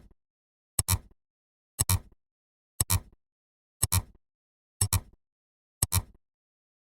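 Ticking sound effect like a clock: each tick is a quick double click, repeating evenly about once a second.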